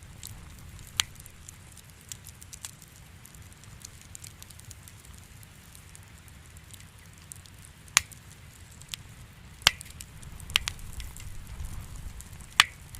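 Wood fire crackling: irregular sharp pops and snaps over a low steady rumble, the loudest pops coming about eight seconds in and near the end.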